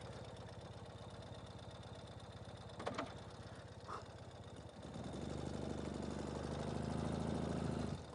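Ural sidecar motorcycle's flat-twin engine idling with an even pulse, then running louder under throttle from about five seconds in before dropping back near the end. Two brief knocks are heard around three and four seconds in.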